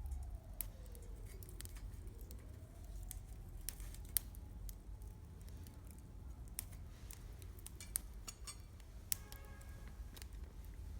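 Wood campfire crackling, with sharp pops at irregular intervals over a low steady rumble. A faint tone slides down in pitch during the first couple of seconds.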